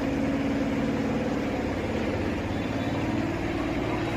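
A steady mechanical drone with a fast, even pulse, like an engine idling.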